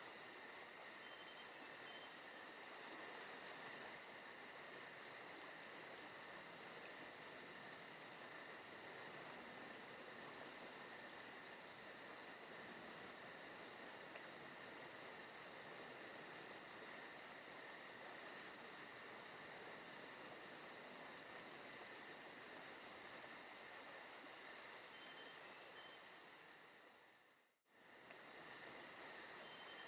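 Forest ambience recording of crickets chirring steadily, a fast even trill over a soft hiss, faint throughout. The sound briefly fades out and back in near the end.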